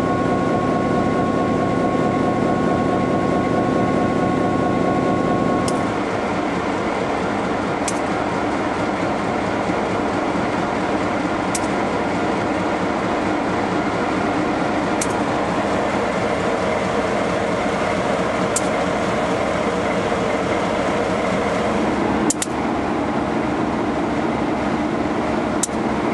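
A diesel-powered train running steadily, heard from aboard. A sharp click comes about every three and a half seconds, and a steady whine cuts off about six seconds in.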